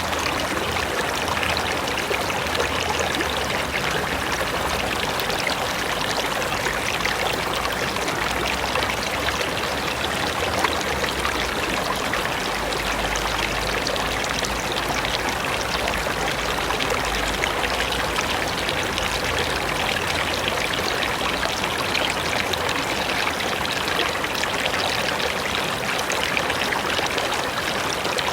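Mountain river running over rocks: a steady, full rush of flowing water with splashing and trickling.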